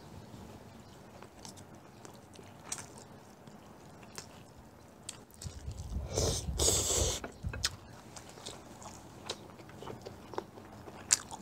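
Close-miked chewing and biting of rice and stir-fried pork with kimchi, with scattered small clicks, and a louder burst of noise lasting about two seconds around the middle.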